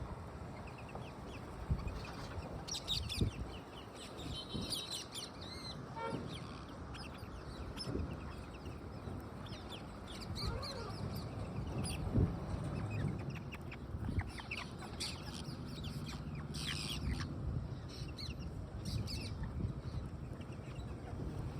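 A jumble of birds calling: many short squawks, clucks and chirps, scattered and overlapping over a steady background noise.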